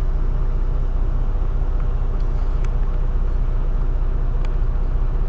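Semi truck's diesel engine idling steadily with a low rumble, with a couple of faint clicks.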